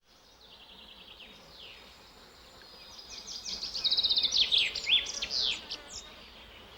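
Songbirds singing: a rapid trill and a run of quick, high, downward-slurred notes that grow louder about halfway through.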